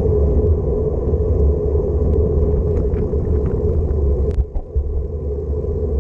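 Wind buffeting the microphone of a bike-mounted camera while cycling: a loud, steady, deep rumble that briefly drops away about four and a half seconds in, with a few faint clicks over it.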